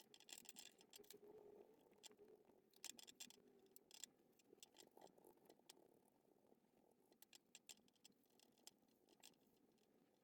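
Faint, scattered light clicks and scratches, thicker in the first half and thinning out after.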